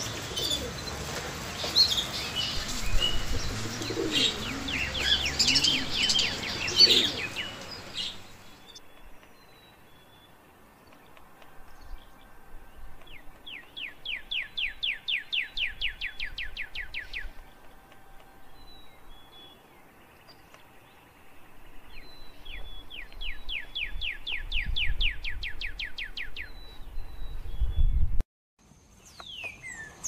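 Caged pet birds chirping: busy, overlapping chirps for the first eight seconds or so, then quieter, with two runs of rapid, evenly repeated trilled notes a few seconds long. A low rumble rises near the end.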